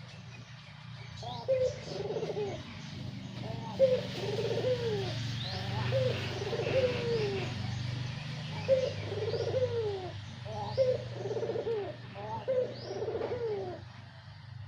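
Dove cooing: six repeated rolling coos, each dropping in pitch, about two seconds apart, with faint high chirps of small birds over a steady low hum.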